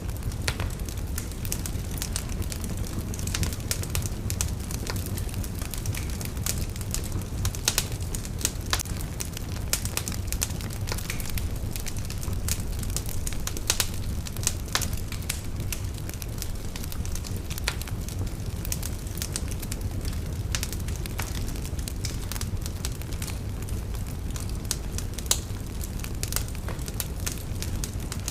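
Fire in a fireplace crackling: many sharp, irregular pops and snaps over a steady low rumble of the flames.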